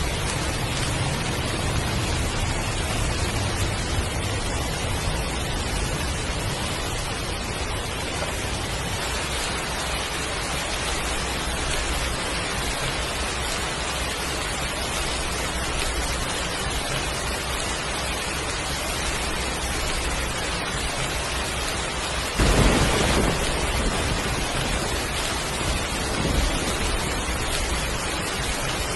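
Heavy rain falling steadily. About three quarters of the way through, a sudden crack of thunder rumbles on for a few seconds.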